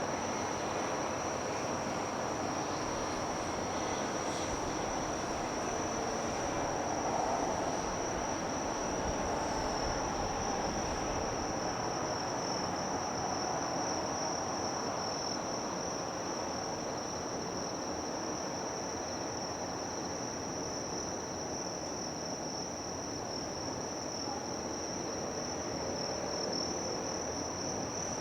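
Steady, unbroken high-pitched trilling of an insect chorus, over a constant wide background rush.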